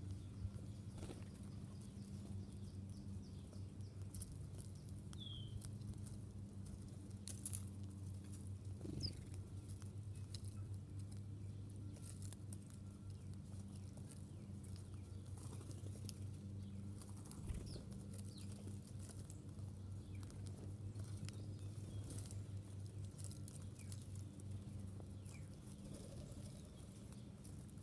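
A few short, faint bird chirps and scattered light taps and clicks, over a steady low hum.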